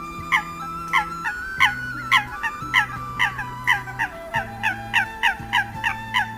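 Recorded Eurasian coot calls: short downward-sliding notes repeated in a quickening train, from about two a second to about three, over a steady backing of held tones.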